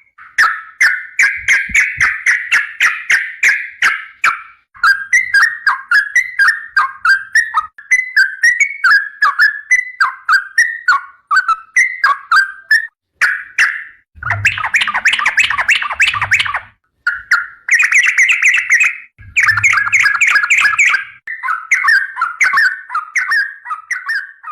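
Yellow-vented bulbul (trucukan) singing in fast, chattering runs of short notes, with two louder, fuller stretches of song partway through and later on, each carrying dull low thumps.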